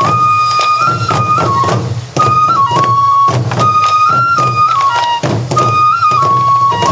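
Sansa odori festival music: a Japanese bamboo flute repeats a short, high phrase over a dense, steady beat of taiko drum strikes.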